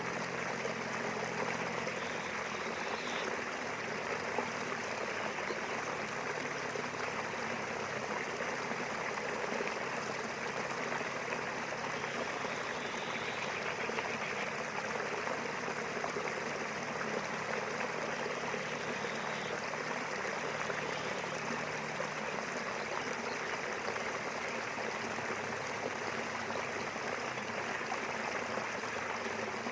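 River flowing steadily: a constant, even sound of running water.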